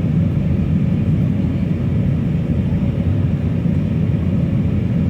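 Steady low rumble of an Airbus A319 airliner in flight, its engine and airflow noise heard from inside the passenger cabin.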